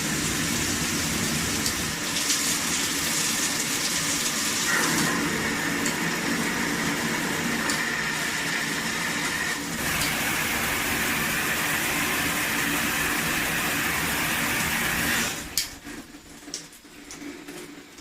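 Aqua Elegante 6-function shower head spraying water in a steady rush, which changes character twice, about five and ten seconds in. The spray cuts off suddenly about fifteen seconds in, leaving a few small clicks.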